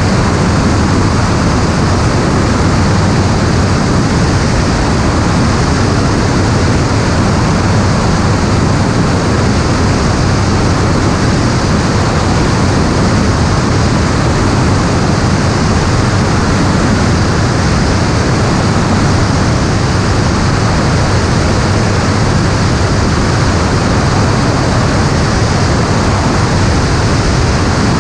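Steady rushing noise of an aircraft's motor and wind heard from on board in flight, even and unbroken, with a low drone under the hiss.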